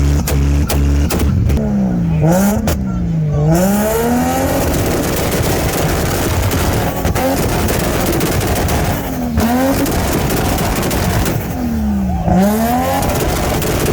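Car engines running hard, their pitch dipping and then climbing again several times, over a constant rushing noise. There are a couple of sharp cracks about seven and nine seconds in.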